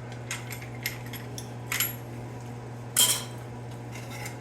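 Metal clinking and clattering as an angle grinder's disc and hardware are handled for a disc change: a series of sharp clinks, the loudest about three seconds in. A steady low hum runs underneath.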